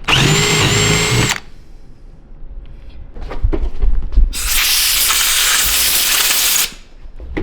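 Power drill drilling into a car's fuel rail to make a port for a fuel pressure sensor. It runs with a steady whine for about a second and a half, and about four seconds in comes a longer burst of loud hissing noise lasting a couple of seconds.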